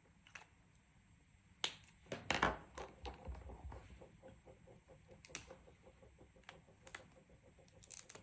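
Colouring on paper: a scraping rustle about two seconds in, then quick back-and-forth scribbling strokes at about six or seven a second that fade, with several sharp clicks scattered through.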